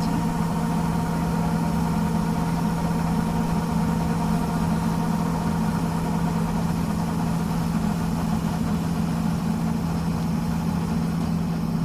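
Sonalika 50 hp 4x4 tractor's diesel engine running at a steady speed, a constant drone with no change in pitch.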